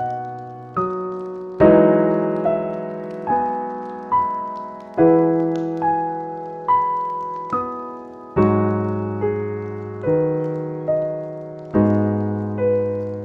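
Slow, gentle solo piano music. A low chord is struck about every three seconds, with single melody notes between them, each note left to ring and fade.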